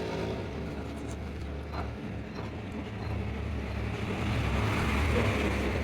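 Truck engine running steadily with a low rumble, getting a little louder near the end.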